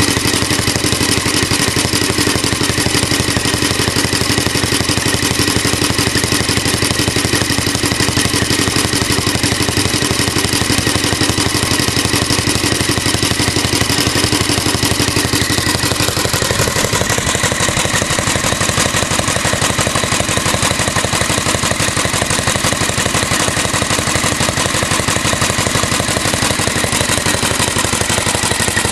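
Small tank-cooled single-cylinder Alpha De Laval engine running steadily under its governor, driving a Century generator through a toothed V-belt that whistles as it runs. The engine's note shifts about halfway through.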